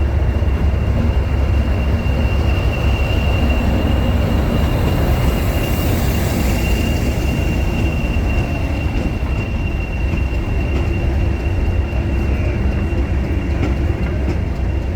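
Diesel-hauled heritage train running, with a heavy low rumble and a steady high-pitched wheel squeal that holds through most of the stretch and eases near the end.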